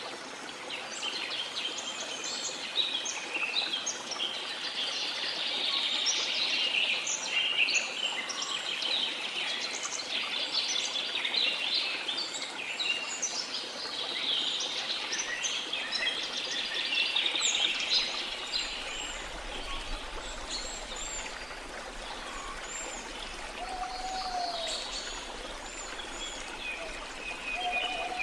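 Many small birds chirping and singing together over a steady wash of sea water. The chirping is densest in the first half. A lower, arching call sounds twice near the end.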